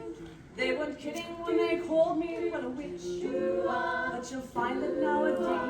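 Several voices singing a cappella in harmony, in sustained phrases, with a short break about half a second in and a dip about three seconds in.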